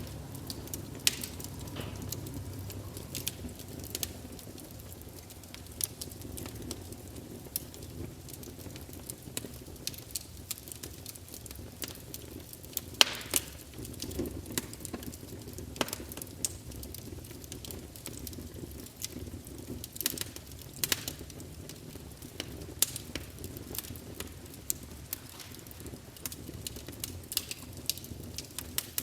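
Campfire burning: a steady low rush of flame under frequent, irregular sharp crackles and pops of burning wood, with one louder pop about halfway through.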